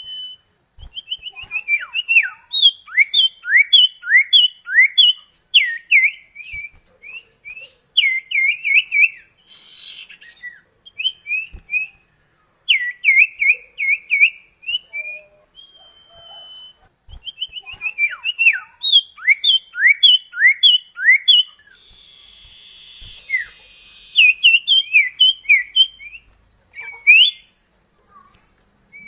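Common iora (cipoh kacat) singing: runs of quick, falling whistled notes, repeated in bursts with short pauses between them.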